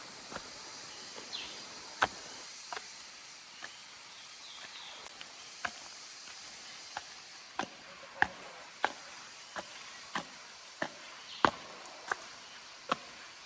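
Footsteps climbing a forest trail and steps: sharp, irregular taps every half second to second and a half. Under them is a steady high hiss of forest insects.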